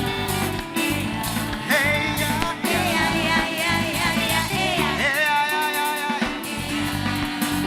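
Live gospel worship band playing, with drums, bass and guitar under a lead voice singing gliding, bending notes without clear words.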